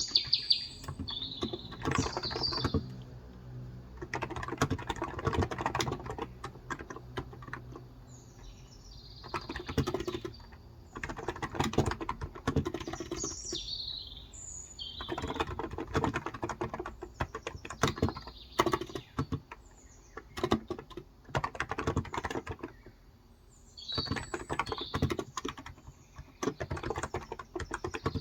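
Typing in quick bursts with short pauses on a Cox Endeavour electrostatic capacitive tenkeyless keyboard with 35 g switches. Birds chirp briefly in the background several times.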